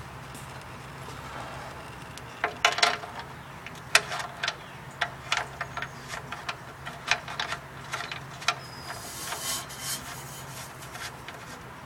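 Irregular metallic clicks and clinks of hand tools and the oil drain plug as the plug is put back into the oil pan. The clicks start about two and a half seconds in, and there is a brief hiss near the end.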